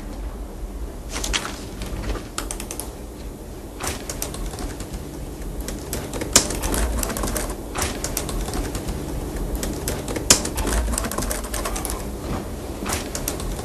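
Irregular sharp clicks and taps, scattered through the stretch with two louder ones partway through, over a low steady hum.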